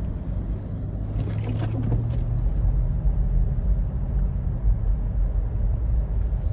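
A car being driven: a steady low engine and road rumble.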